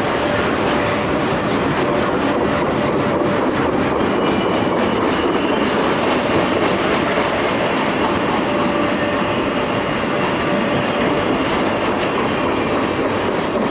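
Southern Pacific freight train rolling past, a steady clatter of steel wheels on rail, with a faint thin wheel squeal riding over it.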